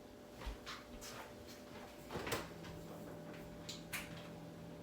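A few light knocks and clicks of kitchen items being handled, spread irregularly, with a faint steady hum that starts about two seconds in.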